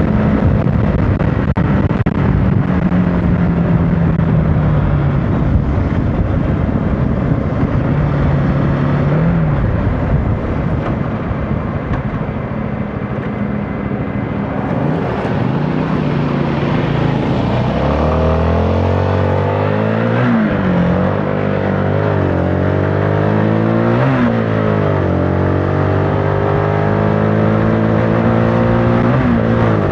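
CFMOTO motorcycle engine running while riding, under heavy wind rush on the microphone for the first half. From about two-thirds of the way in, the engine note comes through clearly, its pitch rising and falling several times with the throttle.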